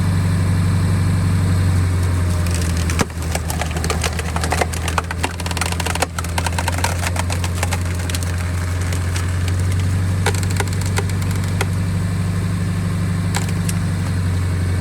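Truck engine running at raised revs, turning a Stickler threaded steel cone splitter on its wheel hub, while a knotty ash log cracks and splinters as the cone screws in and splits it. The cracking comes in a dense run about three seconds in, lasting a few seconds, with a few more snaps near the end.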